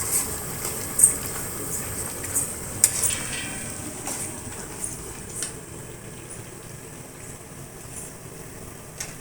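A metal spoon clinking and scraping in a pot while a chicken curry simmers, over a steady bubbling hiss. The clinks stop about five and a half seconds in, leaving only the quieter simmer.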